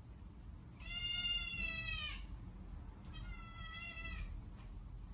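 Domestic cat meowing twice: one long meow that drops in pitch at its end, then a shorter, softer one.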